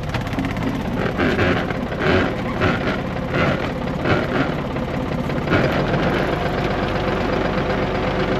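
Tractor engine running with its power take-off engaged to drive a PTO generator, with a regular mechanical clatter about every two-thirds of a second. About five and a half seconds in, a steady low hum sets in.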